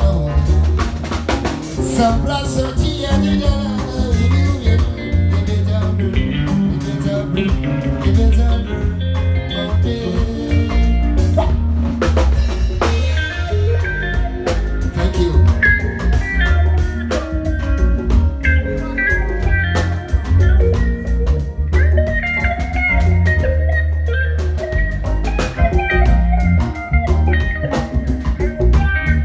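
A band playing: drum kit, heavy bass and guitar in a steady groove, as at a sound check.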